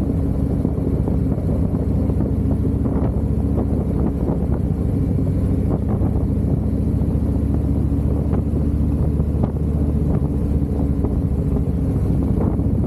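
Harley-Davidson V-twin motorcycle engine running at a steady cruising speed, its pitch holding level, with wind rushing over the microphone.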